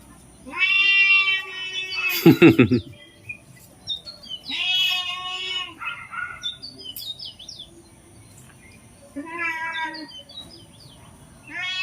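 An animal calling repeatedly: four drawn-out, arching cries, each about a second long, spaced several seconds apart. A loud, shorter, rougher and lower call follows the first, and small chirps come in between.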